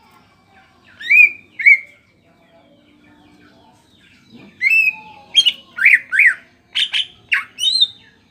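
Greater green leafbird (cucak ijo) singing loud, sharp, piercing call notes, the shot-like 'tembakan' of a bird in full song: two about a second in, then a quick run of about eight from about halfway through.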